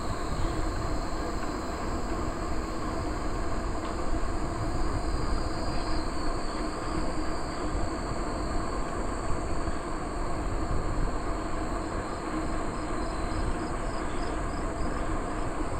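Bicycle rolling along a trail: a steady, unbroken rumble of tyres and drivetrain.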